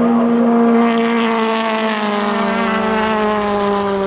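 British Touring Car Championship race car engine running hard as it passes, one strong engine note sliding slowly lower in pitch.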